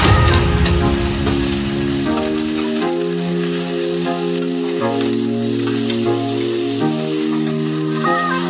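Potato and carrot chunks sizzling in hot oil in a stainless steel saucepan as they are stirred with a metal slotted spoon, with a few light clicks of the spoon against the pan. Soft background music of slow held chords plays throughout.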